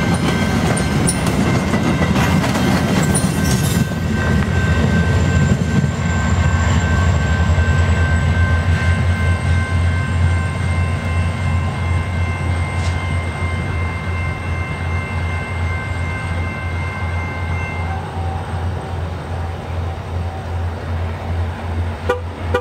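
Passenger train passing at speed, its last coach going by, then the rumble of its wheels on the rails slowly fading as it draws away.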